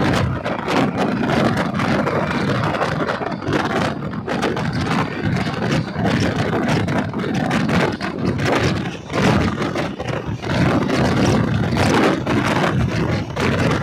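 Moving passenger train's wheels rumbling and clattering on the rails, with a steady loud rush and many irregular sharp clicks, heard from the open doorway of the coach.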